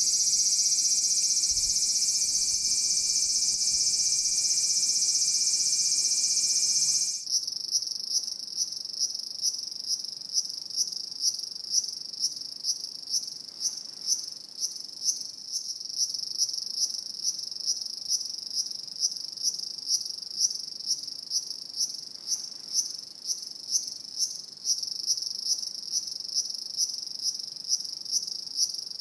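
Crickets calling: a dense, continuous high trill stops abruptly about seven seconds in, leaving a cricket chirping steadily about twice a second.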